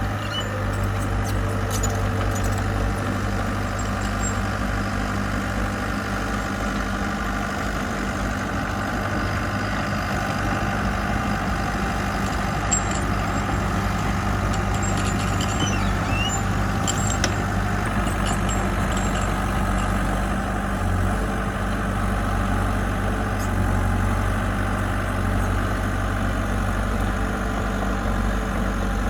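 Diesel engine of heavy construction equipment running steadily, with an even hum and no big changes in speed.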